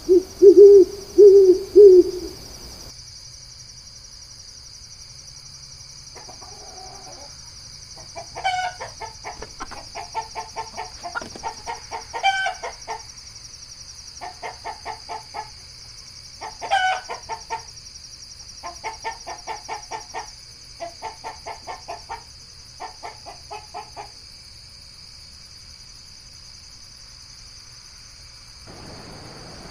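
Bird calls: three loud, low hoots, then a break, then groups of rapid, rattling pulsed calls repeated for about sixteen seconds. A steady high insect drone runs underneath.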